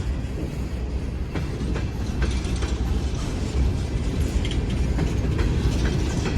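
Empty coal train cars rolling past slowly, with a steady low rumble and irregular clicks and creaks from the wheels and cars.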